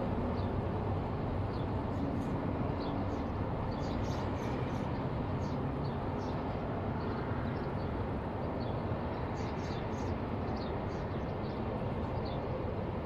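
Steady rushing of sandstorm wind, with small birds chirping in short high notes again and again through it.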